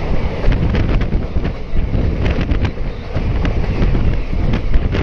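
Loud rumble of a moving Indian Railways passenger train, heard from an open coach door, with wind buffeting the microphone and frequent sharp clicks of wheels over the rails. The coaches of a second train pass close by on the next track.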